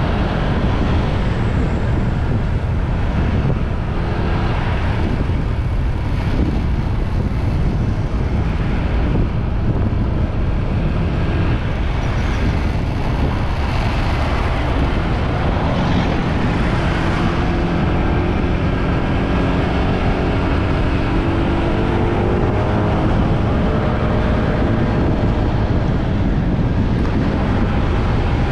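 Motorbike riding noise: wind rushing over the microphone with the engine running underneath. From about 18 seconds in, the engine's pitch rises and falls for several seconds.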